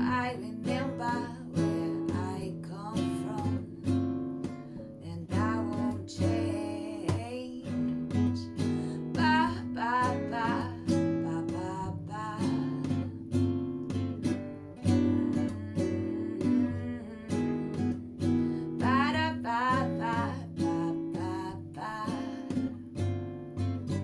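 Acoustic guitar strummed and picked in a steady rhythm, with a singing voice coming in and out over it.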